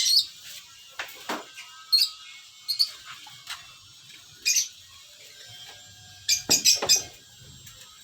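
Small pet parrots giving short, sharp chirps and squawks at irregular intervals, with a quick run of several about three-quarters of the way through.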